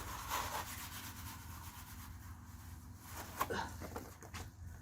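A hand tool scraping and rubbing over freshly applied clay plaster on an adobe wall, drawn upward to take off the excess and level the coat. The scraping is faint, with a few short strokes.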